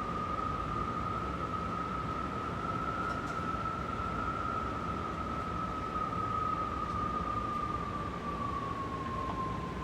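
Strong wind howling: one whistling tone that rises a little, holds, then slowly falls in pitch near the end, over a steady rush of wind.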